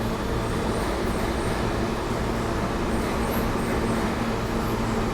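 Steady low hum and rumble inside an R160A-2 New York subway car standing at a station with its doors open, with a constant low droning tone.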